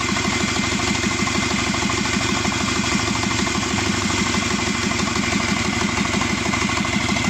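Subaru EJ255 2.5-litre turbocharged flat-four engine, removed from the car, idling steadily with an even pulsing beat, warm after about 18 minutes of running. A thin steady high whine runs alongside it.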